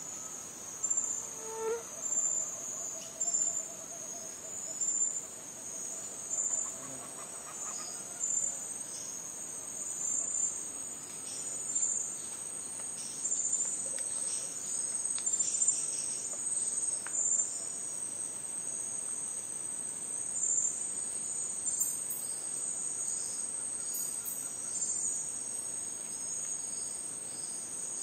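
Rainforest ambience dominated by a steady, high-pitched chorus of insects such as crickets, with pulsing chirps on top and a few faint bird calls, mostly in the first few seconds.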